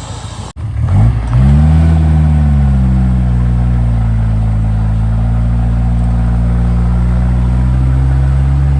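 Off-road 4x4's engine revs up about a second in after a brief break, then runs steadily at raised revs.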